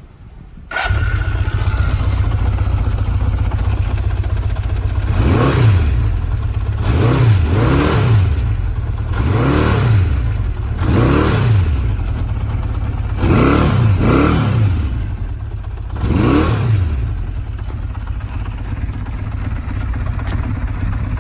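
Honda CB500 Four's air-cooled inline-four engine starting about a second in and idling. It is then blipped about eight times, the revs rising and falling each time, before settling back to a steady idle.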